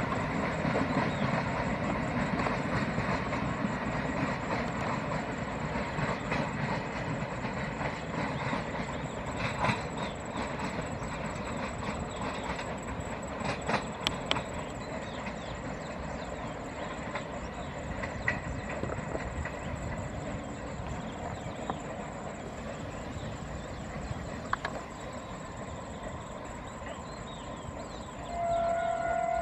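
Passenger train rolling away along the line, its wheels clicking over the rail joints as the running sound slowly fades. Near the end a train horn starts, one long steady note.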